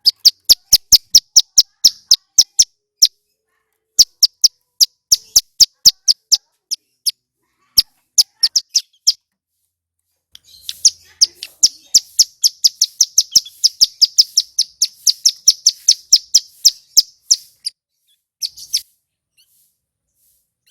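Male ciblek gunung (a prinia) singing: a series of sharp, high clicking notes, several a second, in bursts, then a long fast unbroken run of them lasting about seven seconds, ending with a short burst.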